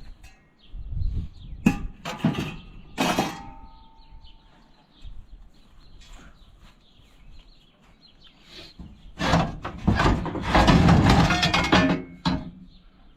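Loose steel garden tractor parts being handled and moved: a few sharp metal clanks, one of which rings briefly, then a few seconds of rattling and scraping near the end.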